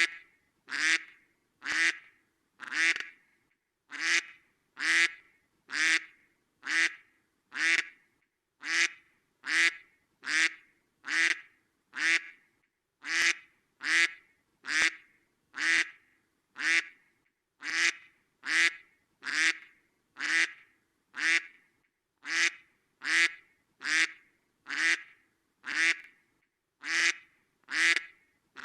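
Duck quacking, one short nasal quack about every second in a steady, evenly spaced series.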